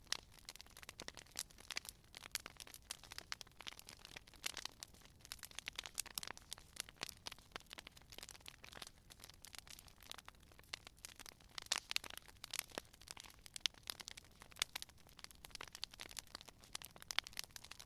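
Campfire wood burning, crackling and popping irregularly with sharp snaps, over a low hiss.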